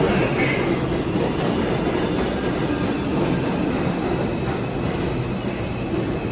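New York City Subway 1 train running on the rails: a steady rumble of wheels and car noise, with a faint high wheel squeal.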